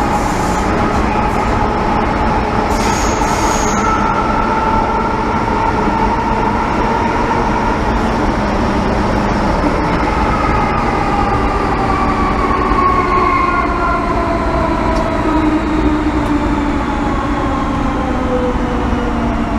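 MTR M-Train electric multiple unit heard from inside the car as it slows: the traction motor whine falls steadily in pitch over the wheel and rail noise, with a brief high squeal about three seconds in.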